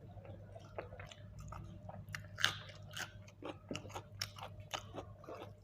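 Close-up chewing and biting of grilled chicken: irregular wet mouth smacks and small crunches, the loudest about two and a half seconds in.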